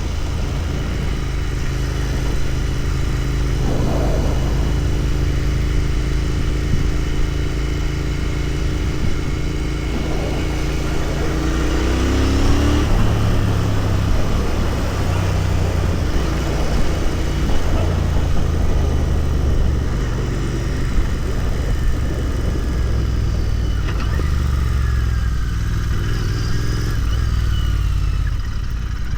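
Royal Enfield Continental GT 650's 648 cc parallel-twin engine running while riding, with road and wind noise. About twelve seconds in the engine note drops in pitch and the exhaust rumble becomes deeper and louder, as with a gear change and the throttle opened again.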